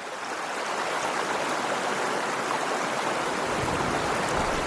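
Mountain stream running steadily, fading in at the start, with a low rumble joining about three and a half seconds in.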